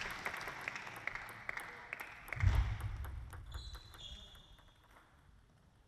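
Applause in a sports hall dying away, with a low thump about two and a half seconds in and a short high squeak about a second later.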